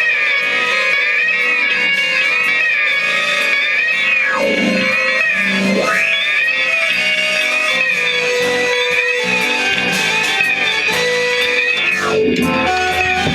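A band's guitar-led rock music played live: a high, wavering electric guitar line over bass. About four and twelve seconds in, the guitar swoops down in pitch and back up.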